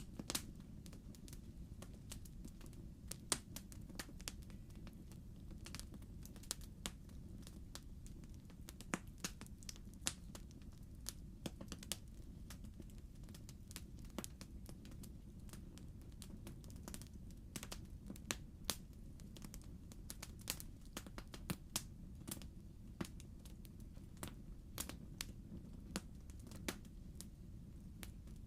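Wood fire burning in a fireplace, its logs crackling in irregular sharp snaps and pops over a steady low rumble.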